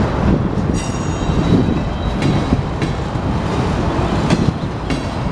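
Union Pacific freight train's empty centerbeam flatcars rolling past slowly, a steady low rumble of wheels on rail. A brief high squeal comes about a second in, and a few sharp clanks follow.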